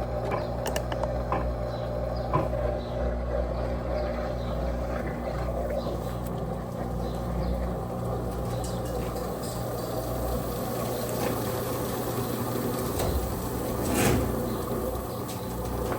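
Electrolux Turbo Capacidade Premium 15 kg top-loading washing machine with an LPR16-style agitator, running a wash cycle: a steady low hum with scattered light clicks, and a short louder noise about fourteen seconds in.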